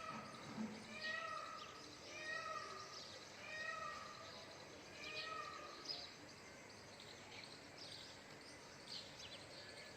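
Indian peafowl (peacock) calling: a series of about five wailing calls, one every second or so, that stops about halfway through. Faint, short, high chirps follow.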